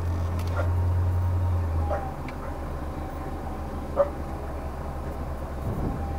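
Off-road vehicle's engine idling with a low, pulsing hum that eases off about two seconds in. Short high chirps come every second or so, and there is one sharp click about four seconds in.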